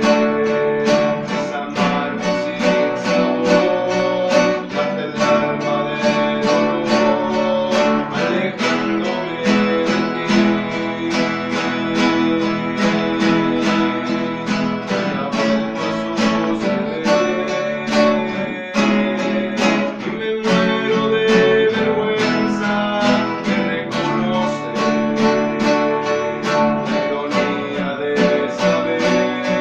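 Men's rondalla ensemble of acoustic guitars strumming and picking a melody in a steady rhythm.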